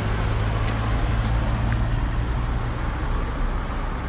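Road traffic noise with the low engine rumble of a large vehicle close by, easing off after about two seconds.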